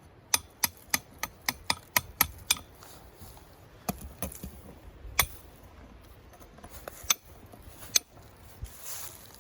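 A quick, even run of about nine sharp knocks, roughly four a second, then a few scattered single knocks and a brief hiss near the end.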